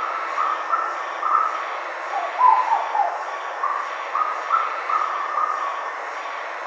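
Black-billed koel calling: a series of short notes repeated about twice a second, with a brief lower, falling phrase about two seconds in, over a steady hiss.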